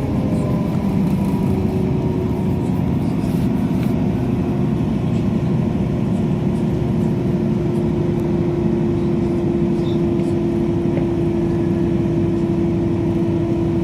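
Great Western Railway diesel train running between stations, heard from inside the carriage: a steady rumble of wheels and engine with a constant drone.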